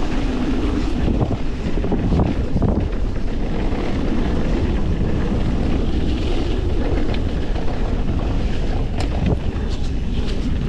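Wind buffeting a GoPro microphone on a mountain bike speeding downhill, with the rumble of tyres over rough trail and a few sharp clicks and rattles from the bike, several of them near the end.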